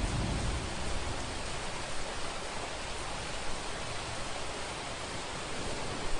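Steady rain hiss from a thunderstorm, with a low rumble of distant thunder fading away over the first second or two.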